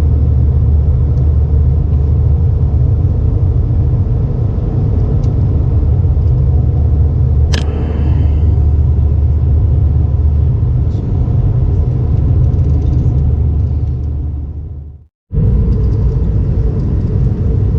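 Steady low rumble of cabin noise aboard an Airbus A320 jet airliner. About halfway through there is one short, sharp sound with a brief ringing tail. Near the end the sound drops to silence for a moment, then the rumble comes back.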